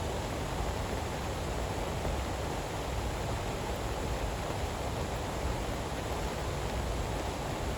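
Steady heavy rain: an even, unbroken hiss with no single drops or thunderclaps standing out.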